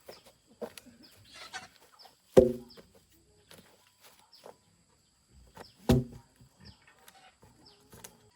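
Chickens clucking in short, sharp calls, two of them loud, about two and a half seconds in and again near six seconds, with faint high bird chirps repeating behind.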